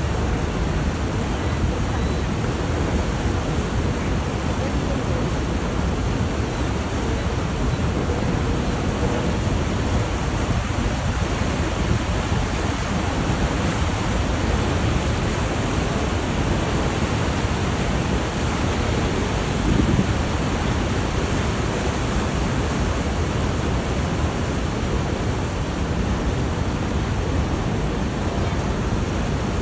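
Rushing white water of the Niagara rapids, a steady, loud noise.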